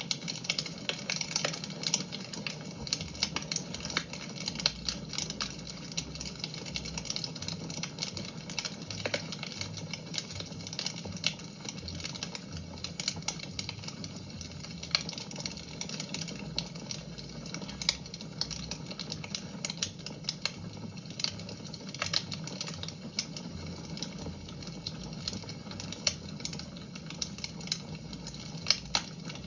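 Fire in a fireplace crackling: irregular sharp snaps and pops, a few louder than the rest, over a steady hiss.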